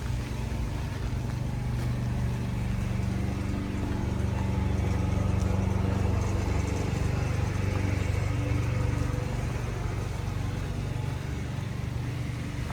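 A motor vehicle's engine running close by, a steady low hum that grows louder through the middle and then eases off.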